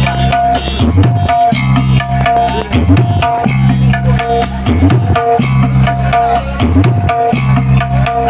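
Loud electronic 'battle mix' dance music played through a large parade sound system, with a dense drum beat and a heavy bass line that slides up about every two seconds.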